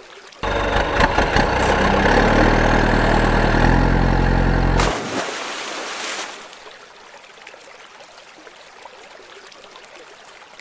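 An engine starting suddenly and running for about four and a half seconds, its pitch stepping up shortly before it cuts off, followed by a short hiss; a stream runs underneath.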